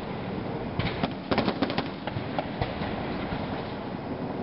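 Aerial fireworks bursting: a quick run of sharp bangs and cracks from about one to two seconds in, with a few fainter pops after, over a steady background noise.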